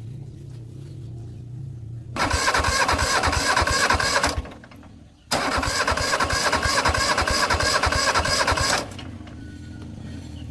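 An engine being cranked twice, a burst of about two seconds and then, after a short pause, one of about three and a half seconds, with even strokes running through each, over a steady low hum.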